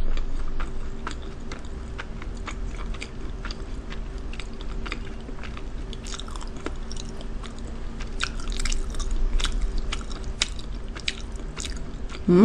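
Close-miked chewing of a mouthful of jjajang fried rice and black-bean noodles: many small, irregular wet clicks from the mouth. A faint steady hum runs underneath.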